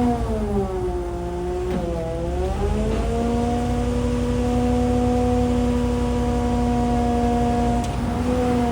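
A machine's engine running with a steady, pitched whine. The pitch sags for about two seconds early on, as if briefly put under load, then recovers and holds steady, with a short dip near the end.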